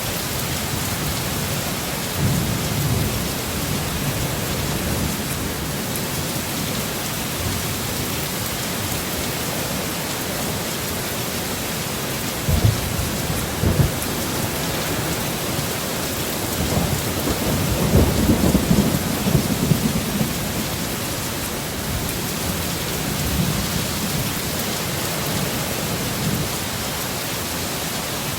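Heavy rain pouring steadily, with low rolls of thunder rumbling several times; the longest and loudest roll comes a little past halfway, and one begins with a sharp crack just before.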